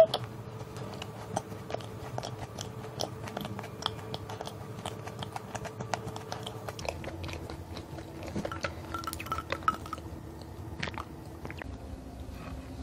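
Close-up sound of a person chewing a dense, Nutella-filled cookie with the mouth closed: a run of small, irregular clicks and smacks.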